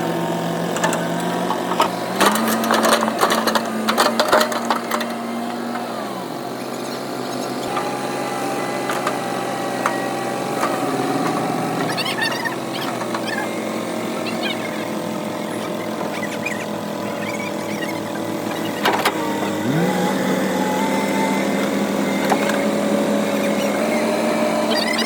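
Kobelco excavator's diesel engine running, its speed stepping up and down as the hydraulics are worked, with a rising glide near the end. A cluster of sharp clanks sounds a couple of seconds in.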